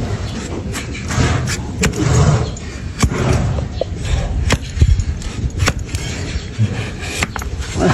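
Irregular sharp knocks and dull thumps, about five standing out, over a low steady rumble.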